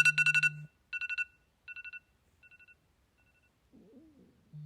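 Mobile phone ringing on vibrate and ring: a fast electronic trill with a low vibration buzz under it, followed by fainter trills that fade out. A loud trill with buzz starts again near the end.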